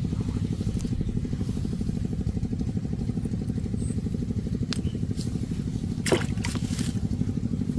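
Small engine running steadily with a fast, even pulse. A few short, sharp sounds come over it, the loudest about six seconds in.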